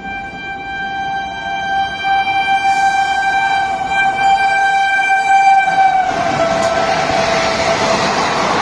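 Indian Railways express train running through a station at speed: a long, steady locomotive horn that drops in pitch about six seconds in as the locomotive passes, then the loud rush and rumble of the coaches going by.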